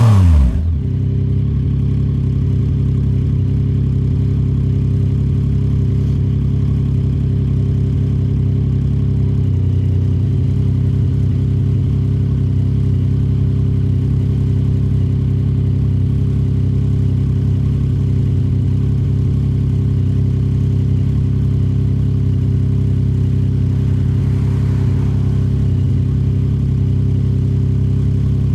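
Yamaha MT-09 SP's 890 cc three-cylinder engine through a Toce full aftermarket exhaust. It gives a short, loud rev that drops away within the first second, then holds a steady low note at an unchanging engine speed.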